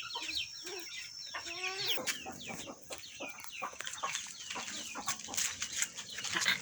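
Chickens clucking, many short overlapping calls, with small birds chirping among them.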